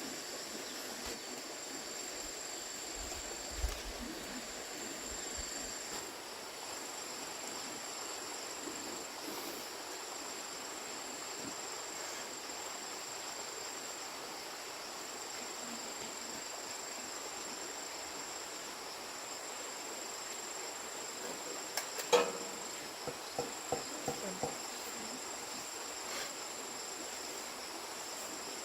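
Insects chirring steadily in a high-pitched drone. About three-quarters of the way through comes a sharp knock, followed by several fainter knocks and clicks.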